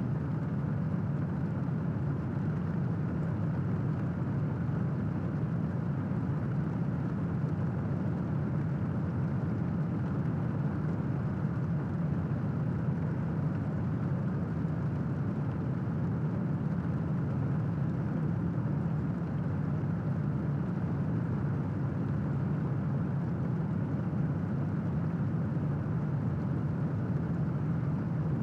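Steady, unbroken rain noise with a deep, low-weighted hiss and no thunder clap.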